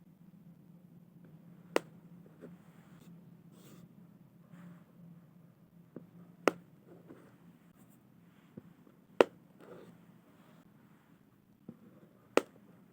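Head lice crushed between fingernails: four sharp pops about three seconds apart, with a few fainter clicks and light scratching between them.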